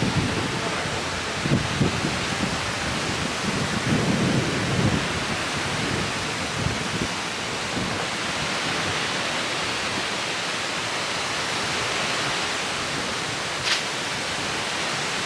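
Steady rushing noise of surf and wind, with a few low thuds in the first five seconds and one short sharp click near the end.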